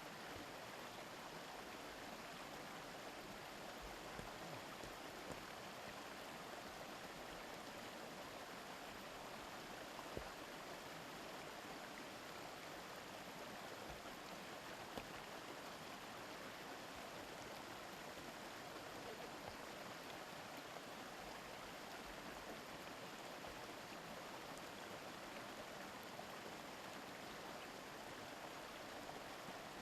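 Shallow mountain river babbling steadily over stones, an even rush of flowing water with a few faint splashes.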